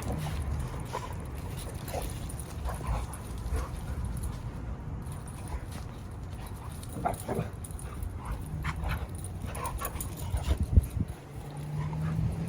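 Dogs playing: low, steady growling, strongest near the end, with short yips and whimpers every few seconds.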